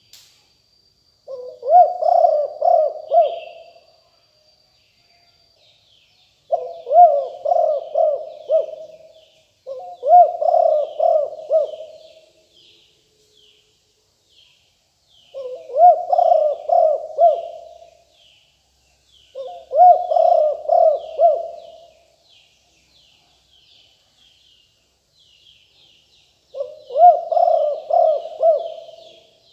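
Spotted dove cooing: six phrases of several quick coos each, a few seconds apart. Small birds twitter faintly in the background from about six seconds in.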